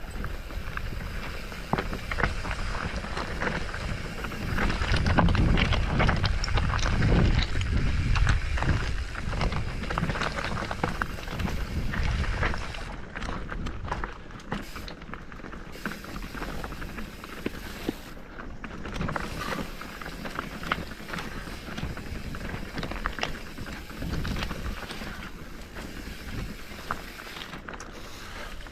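Footsteps and rustling of brush along a hillside trail, with many small crunches and crackles. Wind buffets the microphone with a low rumble about five to nine seconds in.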